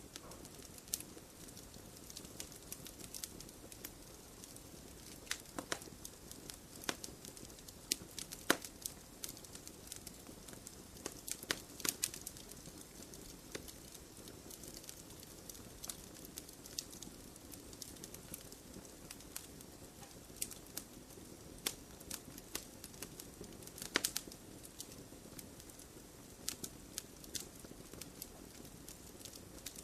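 Wood fire burning in a stone fire pit: a low steady flame hiss with frequent sharp crackles and pops at irregular intervals, a louder cluster about midway and a strong pop a little past two-thirds through.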